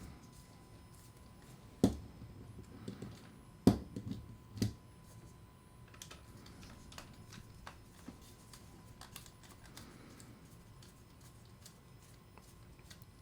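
Small metal reel parts and tools clicking and tapping as a star drag fishing reel is taken apart by hand, with two sharp knocks, one near 2 seconds in and a louder one just before 4 seconds, then a lighter knock.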